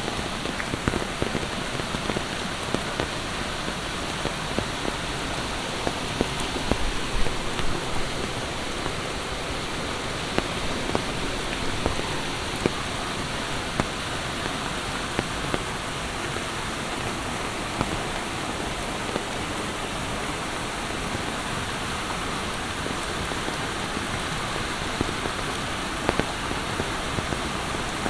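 Steady heavy monsoon rain falling, with many close raindrops ticking sharply against the even hiss.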